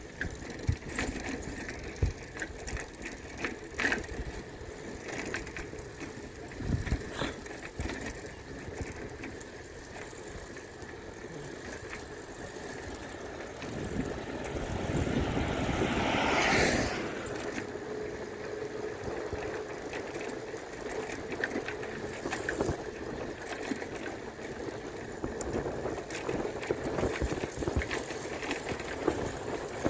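Steady road and wind noise from riding a bicycle, with scattered knocks and rattles. About halfway through, a rushing noise swells up over a few seconds and then drops away suddenly.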